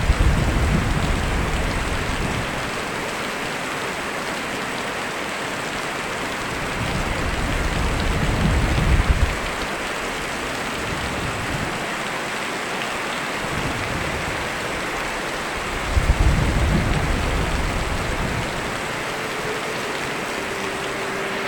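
Steady rain falling, with low rumbles of thunder: one right at the start, a longer one that swells about seven seconds in and cuts off about two seconds later, and a third about sixteen seconds in.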